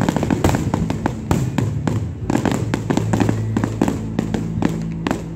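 Fireworks display: rapid, overlapping bangs and crackles of bursting shells, several a second, over a steady low hum.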